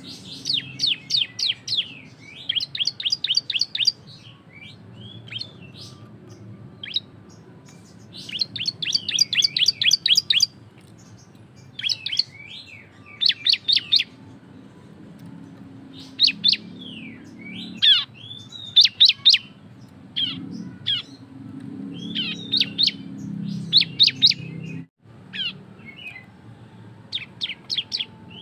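Bar-winged prinia (ciblek) singing its fast, loud 'ngebren' song: bouts of rapid sharp chirps, each lasting a second or two, with short pauses between.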